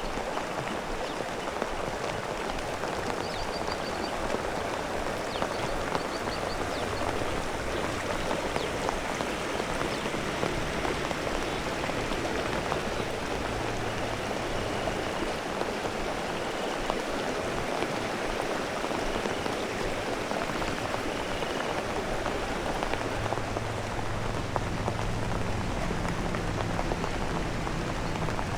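Steady heavy rain falling and pattering on surfaces, a dense, even patter throughout.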